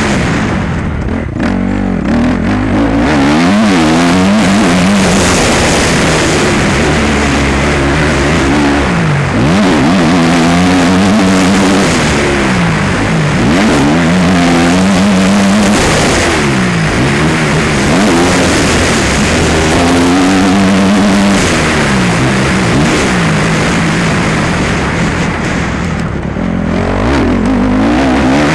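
Motocross bike engine running hard, its pitch repeatedly climbing as the throttle opens and dropping back every couple of seconds.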